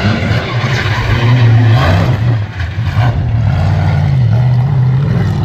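Competition safari off-road racer's engine running hard under load, its pitch rising and dipping several times as the revs change.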